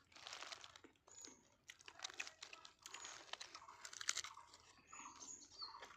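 Faint, irregular crunching and crinkling: a string of short crackles.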